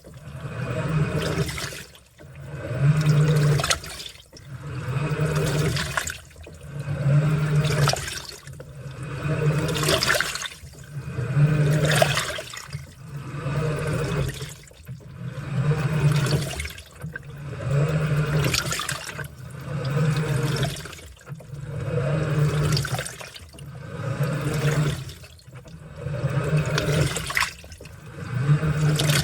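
Washing machine in its wash cycle: water sloshing in surges about every two seconds as the drive alternates direction, each surge carrying a low motor hum.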